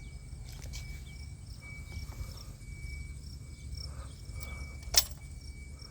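Insects trilling in an on-and-off high steady tone over a low rumble, with one sharp click about five seconds in; the engine is not yet running.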